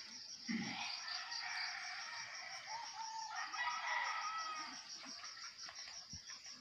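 Rooster crowing faintly, with a steady high-pitched pulsing of about seven beats a second underneath.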